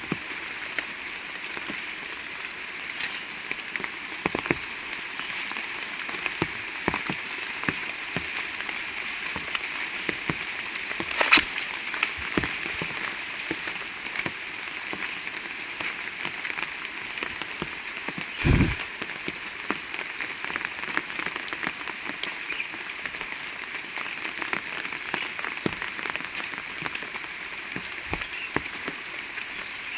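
Heavy rain falling steadily, an even hiss scattered with the taps of individual drops. A sharp crack comes about eleven seconds in, and a louder low thump about eighteen seconds in.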